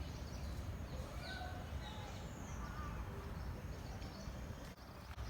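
A few faint, short bird calls over a steady low rumble of outdoor background noise.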